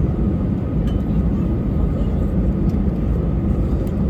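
Steady rumble of an Airbus A320's running engines and airflow, heard inside the passenger cabin, with a few faint ticks.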